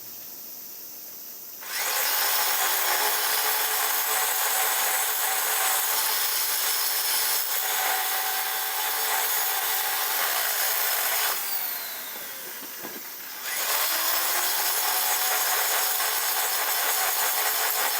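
A power tool running under load in two long spells, each starting with a rising whine as it spins up, cutting or grinding with a dense rasping noise. The spells are split by a pause of about two seconds in which it winds down.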